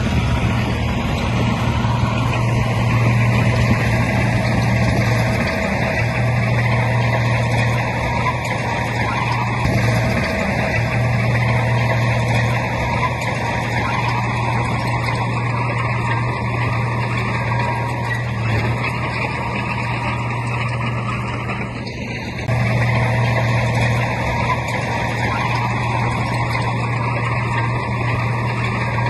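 Heavy diesel earthmoving machinery running steadily, its engine note a constant low drone, with a brief drop in level about three-quarters of the way through.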